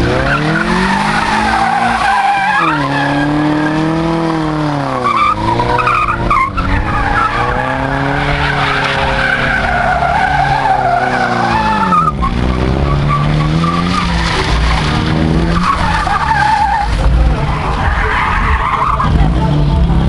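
Ford Capri engine revving hard while its tyres spin and squeal, heating the tyres in a burnout. The engine pitch rises and falls again and again over continuous tyre squeal.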